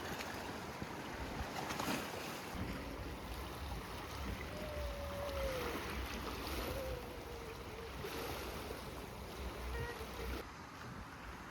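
Wind gusting against the microphone: a steady rushing with low rumbling buffets that die down about ten and a half seconds in. A faint wavering tone rises and falls in the middle.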